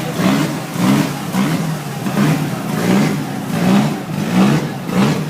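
Rally car engine being revved again and again, its pitch rising and dropping about twice a second.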